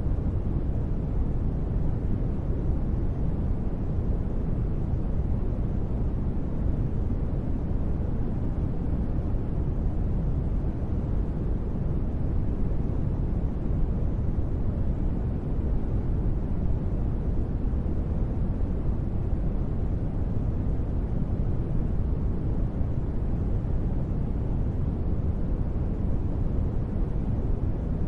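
Steady synthetic noise of a deep space ambience track, weighted heavily toward the bass so it is heard as an even, deep rumble rather than a hiss. It holds constant throughout, with no tones or events.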